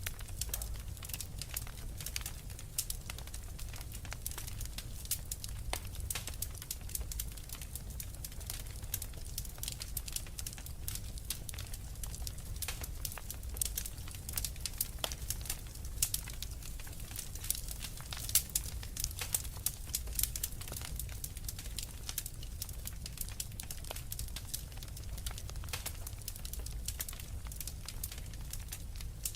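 Wood fire crackling, with dense, irregular small pops and snaps, over a steady low rumble of blizzard wind.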